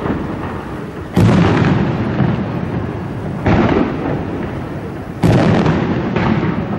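Aerial firework shells bursting overhead: four loud booms a second or two apart, each trailing off into a rolling rumble that dies away.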